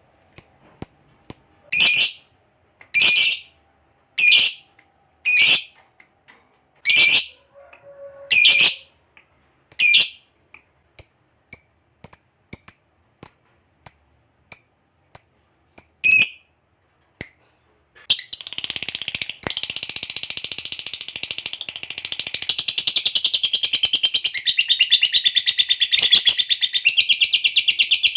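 Lovebird calling: short, shrill, separate chirps about once a second, then from about two-thirds of the way in a long, unbroken, rapid chattering trill, the long 'ngekek' song that fanciers prize.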